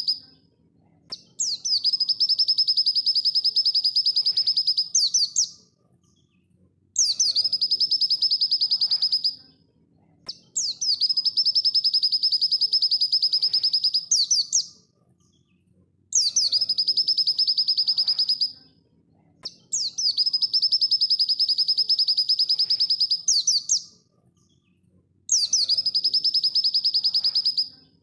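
Pleci dakun (white-eye) singing its fast, full-speed masteran song: six near-identical rapid high trills of three to four seconds each, every one ending in a quick upward flourish, with short pauses between them.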